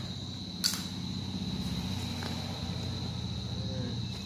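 A cricket trills steadily at one high pitch over a low hum. A single sharp click comes about half a second in, as the backpack's straps and pouches are handled.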